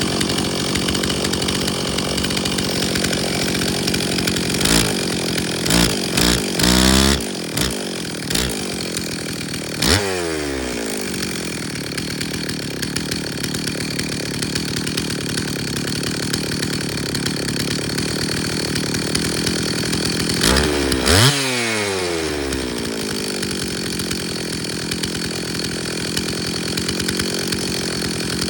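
Stihl 034 two-stroke chainsaw engine running without its bar and chain. It idles steadily and is revved briefly several times, in a cluster about five to seven seconds in and again around ten and twenty-one seconds, each rev falling back to idle. The carburettor jets, freshly cleaned and set, are being fine-tuned.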